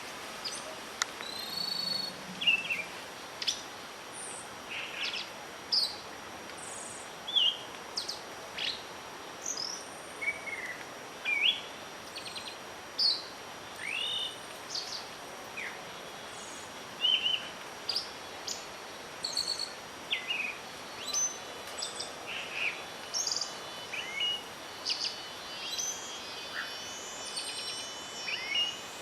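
Several songbirds chirping and calling, short separate calls following one another every second or so, over a steady hiss of wind.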